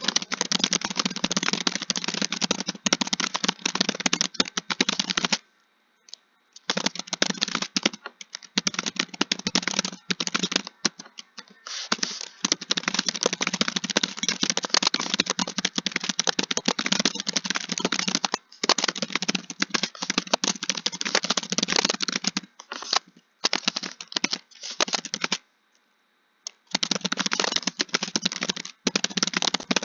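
Fast typing on a computer keyboard: a rapid, continuous run of keystroke clicks, breaking off for about a second twice, about six seconds in and near 26 seconds.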